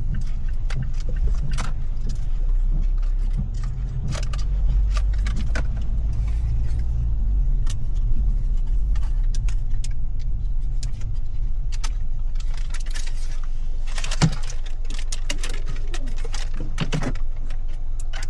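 Steady low rumble of a car heard from inside the cabin, with irregular sharp taps and clicks scattered throughout and a loud cluster of them about two-thirds of the way in.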